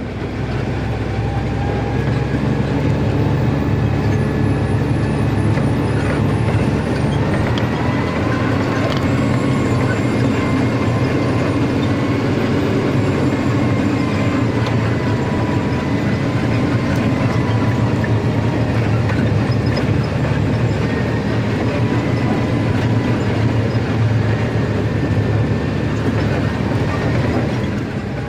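Steady engine and road noise of a truck heard from inside the cab while driving, with a continuous low rumble and light rattles.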